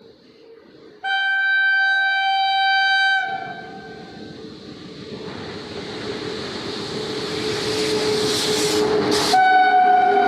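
Horn of an Indian Railways WAP7 electric locomotive blowing for about two seconds, then the rising rumble of the high-speed express train approaching and running past, growing steadily louder. The horn sounds again near the end.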